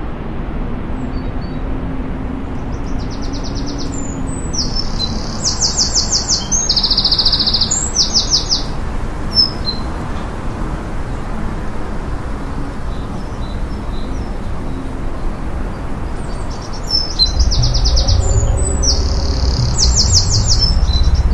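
Forest ambience with a bird singing rapid high trills in two bouts, a few seconds in and again near the end, over a steady low background hiss. A low rumble grows louder near the end.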